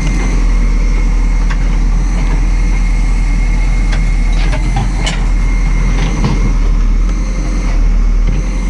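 Heavy earth-moving machine's diesel engine running steadily, with a few sharp knocks about midway through.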